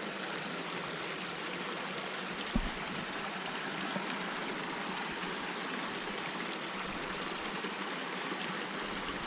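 Steady rush of flowing water, with one short knock about two and a half seconds in.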